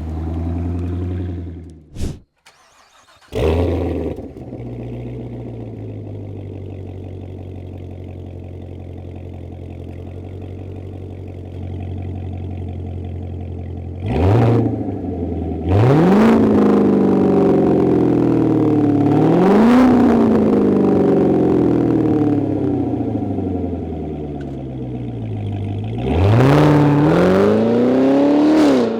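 Chevrolet Corvette C7's 6.2L V8 through an MBRP axle-back exhaust. It starts up about three seconds in with a loud flare, settles to a steady idle, then is revved several times from about halfway, the pitch rising and falling with each rev.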